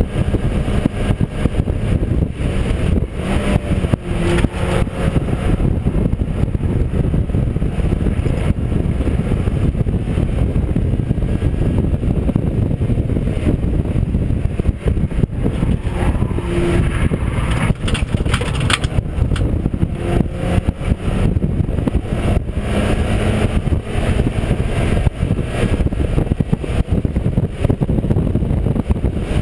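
Mazda MX-5 race car's four-cylinder engine running at racing pace, heard from inside the car over loud, steady road and wind noise.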